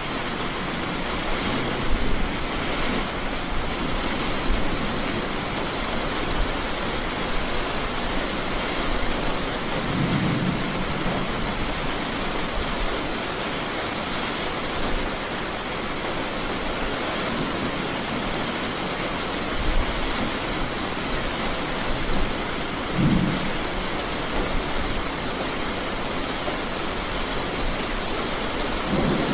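Steady heavy rain with thunder rumbling low in the background, swelling a couple of times, about a third of the way in and again near the end.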